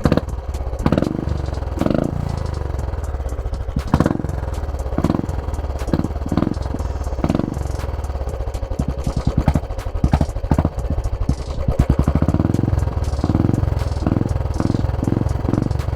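Royal Enfield 350 single-cylinder engine idling with a steady low pulse through a tapered exhaust with the baffle removed, the throttle blipped in short, repeated revs, several in quick succession near the end.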